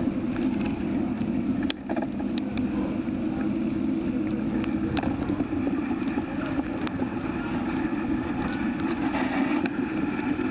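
Wind rushing over the microphone of a moving bicycle rider, a steady low rumble with a few light clicks.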